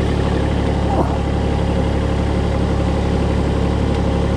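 Large engine running steadily at idle, a low, even drone.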